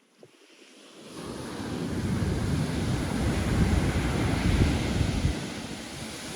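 Pacific Ocean surf: a wave rushes in and breaks, swelling over a few seconds and then easing off, with wind buffeting the microphone as a deep rumble.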